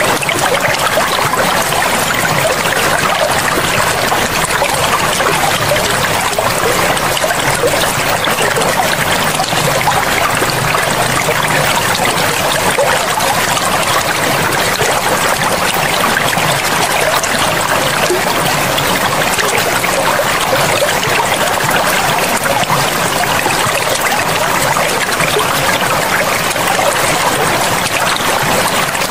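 River water flowing steadily, a constant rushing and trickling with no change in level.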